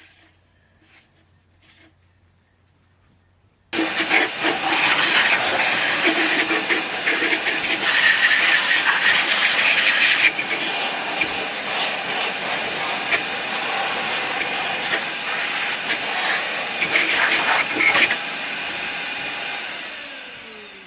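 After a few seconds of quiet, a shop vacuum run as a blower starts with a loud, steady rush of air, blowing gasket debris off an engine block. Near the end it is switched off and its motor winds down with a falling whine.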